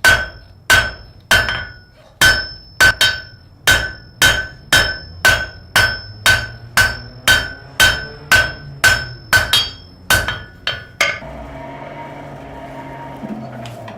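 Blacksmith's hammer striking hot metal on an anvil in a steady rhythm of about twenty blows, each with a bright ringing note, the blows coming slightly faster towards the end. The hammering stops about eleven seconds in, leaving a steady low hum.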